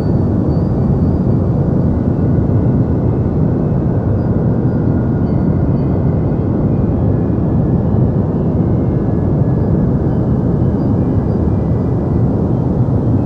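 Continuous deep white noise for sleep: a steady, unbroken rushing hiss, heavy in the bass and soft in the treble.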